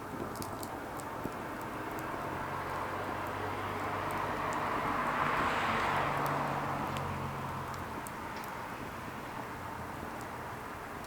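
Burning firewood crackling, with scattered sharp pops. Around the middle a low hum and a rushing sound swell up and fade away over a few seconds.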